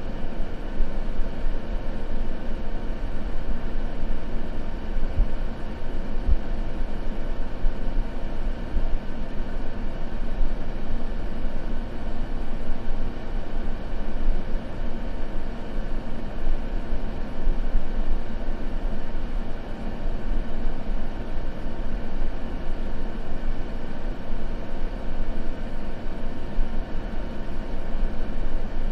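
Steady white noise: an even, unbroken hiss heaviest in the low end, with no changes.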